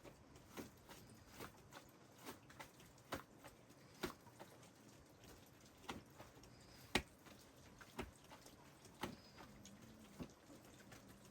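A quiet background with about a dozen light, sharp clicks or taps at irregular intervals, roughly one a second; the sharpest comes about seven seconds in.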